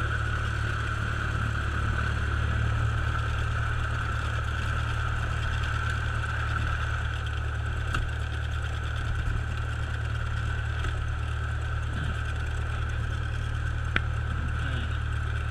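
Cessna light aircraft's piston engine running steadily, heard from inside the cabin.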